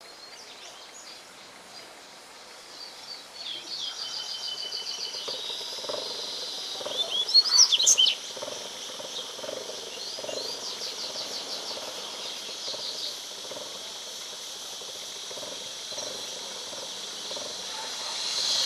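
Double-collared seedeater (coleiro) singing: several phrases of rapid high twittering trills, the loudest burst of sweeping notes about seven to eight seconds in, over a steady high background hiss.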